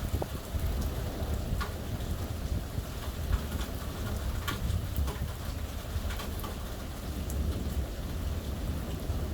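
Steady heavy rain, with sharp ticks of single drops striking close by and a low rumble underneath.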